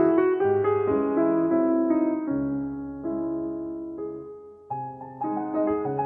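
Background piano music: slow, gentle notes and chords, thinning out and fading about four seconds in before the playing picks up again.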